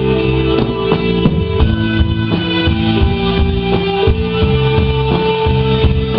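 Rock band playing live without vocals: electric guitar holding sustained notes over bass and a steady drum beat.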